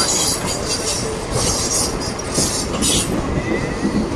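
Bombardier electric multiple-unit local train running past, its wheels rumbling over the rails with repeated short bursts of high-pitched wheel squeal.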